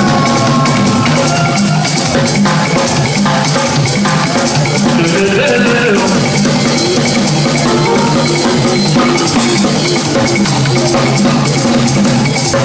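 Live band playing an instrumental passage driven by drum kit and hand percussion, with snare and bass drum strokes over a steady bass line.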